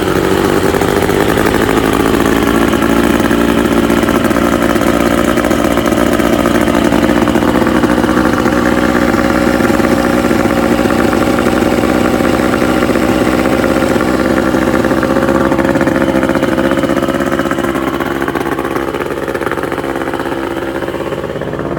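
A 1978–80 Mercury 50 hp (Merc 500) four-cylinder two-stroke outboard running steadily at a little above idle. Its pitch rises slightly at first, holds steady, and eases down near the end.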